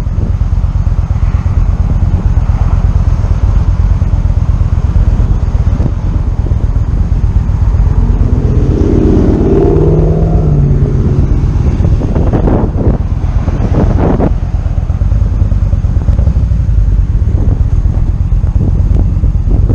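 Motorcycle riding along at speed, wind buffeting the microphone over the engine's steady running. About halfway through, a pitched engine note rises and stands out for a few seconds.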